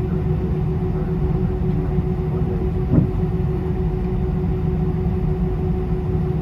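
Steady cabin rumble of an Airbus A320 with a constant hum from its engines and air systems, and a single knock about three seconds in.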